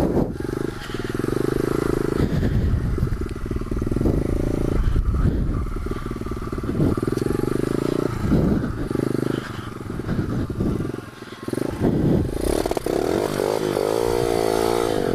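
Pit bike engine running under throttle, revving up and down repeatedly as the rider opens and closes the throttle, with a wavering run of rising and falling revs near the end.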